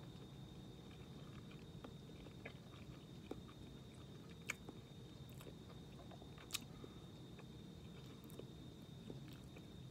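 Faint chewing of a mouthful of canned Vienna sausage, with a few small clicks, over a low steady room hum and a thin high whine.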